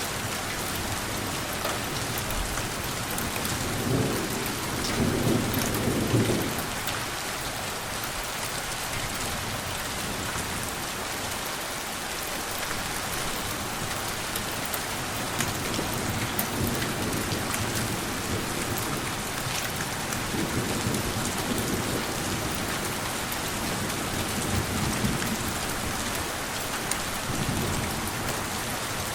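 Steady rain falling and pattering on surfaces, with low rolls of distant thunder, the strongest about four to six seconds in and fainter ones later.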